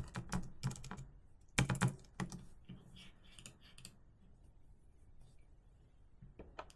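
Typing on a keyboard: a run of keystrokes with a deep thud for the first two seconds or so, a few lighter, higher clicks around three seconds in, then only scattered faint taps.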